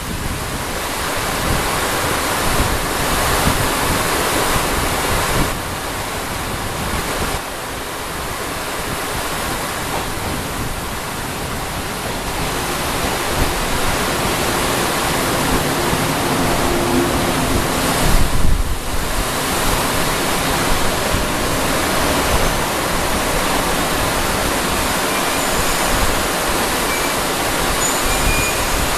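Torrential downpour hissing steadily, with a 115 series electric multiple unit running in alongside the platform and slowing to a stop. The rain is the loudest sound, with a faint low hum from the train about halfway through.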